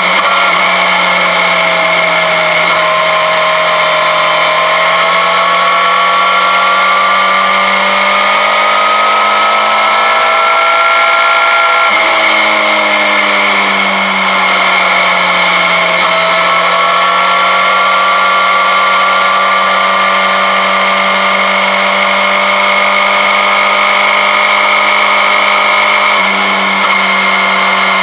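Motorcycle engine running under way, its pitch climbing slowly, dropping about twelve seconds in, then climbing again, over a steady rushing hiss.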